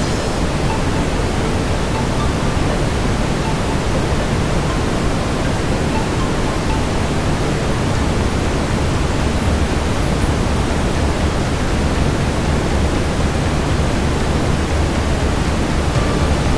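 Steady brown noise, an even deep hiss weighted toward the low end, with faint scattered crackles from a fireplace.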